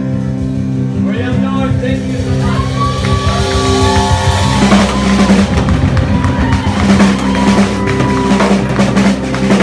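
Live rock band playing: sustained guitar and keyboard chords under a sung vocal line, with the drum kit coming in about halfway through and the music getting fuller.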